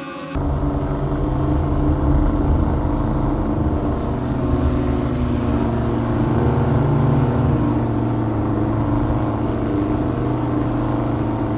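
Air-cooled Volkswagen flat-four engine running under load with a steady, loud, low drone while the vehicle drives in snow. It comes in abruptly about a third of a second in.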